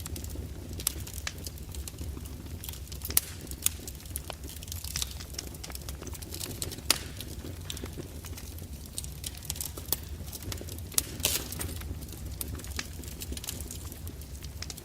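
Fireplace crackling: irregular sharp pops and snaps over a low steady rumble.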